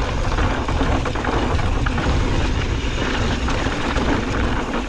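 Mountain bike running fast down a dirt trail: wind rumbling on the microphone over tyre noise, with the bike rattling over bumps.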